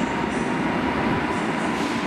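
An EN57 electric multiple unit running slowly along the platform: a steady rumble with a faint, steady high whine running through it.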